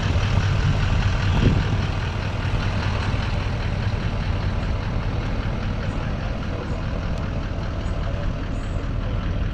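Steady engine and road noise heard from inside the cab of a vehicle towing a toy hauler at low speed, with a constant low hum.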